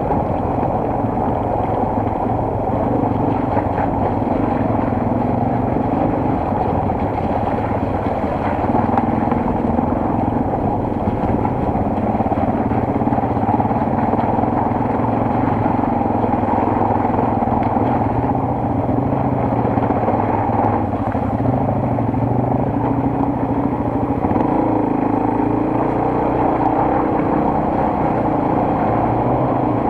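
Single-cylinder four-stroke enduro motorcycle engine running steadily under way, its note drifting gently up and down with the throttle.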